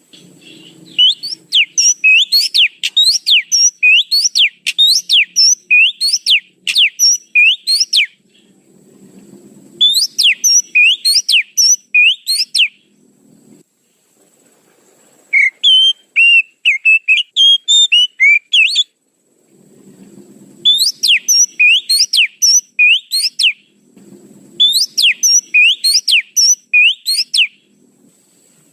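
Oriental magpie-robin (kacer) lure call: phrases of rapid, sharply sweeping whistled notes, several a second, repeated with short pauses between them. One phrase in the middle has a different, warbling pattern.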